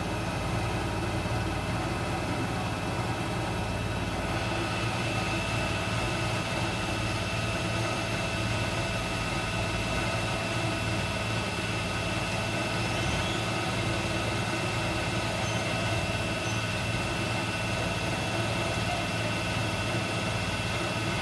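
Miele W 759 washing machine running steadily: a constant low motor hum, with a thin high whine that comes in about four seconds in and holds.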